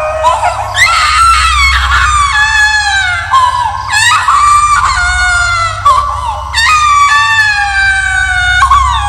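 High-pitched screams in a row, several long cries that each start sharply and slide down in pitch, over a low steady rumbling drone: a horror sound effect.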